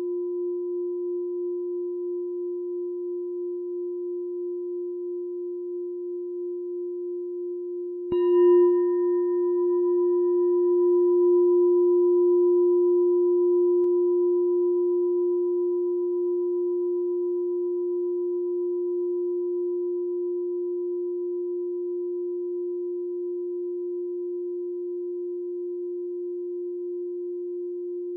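Meditation bell ringing with a long, steady low tone that wavers slowly, struck again about eight seconds in; the new strike adds brief higher overtones that die away within a few seconds, and the main tone then slowly fades.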